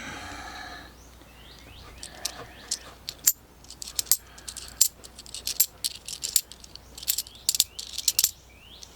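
Half dollar coins clicking and clinking against one another as they are handled and sorted, in a run of many sharp, irregular metal clicks.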